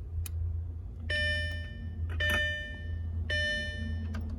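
Audi A4 B6 door-open warning chime ringing three times, about a second apart, with ignition on. Underneath is a steady low hum with a faint click near the start: the odd clicking, electrical-sounding noise that the owner cannot identify and is unsure is normal.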